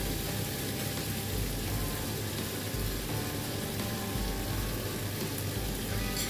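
Chicken livers and green chilies sizzling in a hot wok: a steady frying hiss, with a brief tap about six seconds in.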